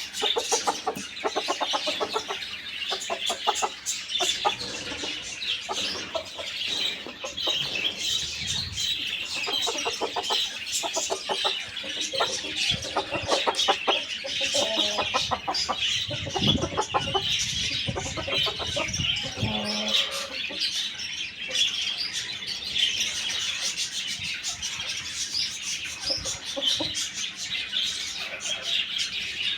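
Chickens clucking in short runs, over a dense, continuous chatter of small birds chirping.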